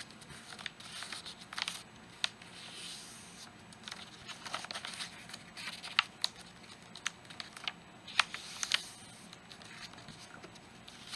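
A sheet of paper being folded and creased by hand: soft rustling with scattered sharp crinkles and taps.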